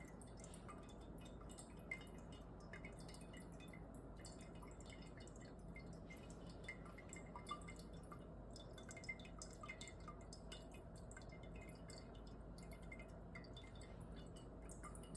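Near silence: room tone with a faint steady hum and a few faint, scattered small clicks.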